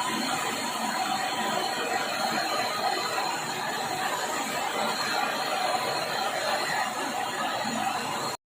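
MAPP gas torch flame hissing steadily as it heats a copper tube joint to a red glow for silver brazing. It cuts off suddenly near the end.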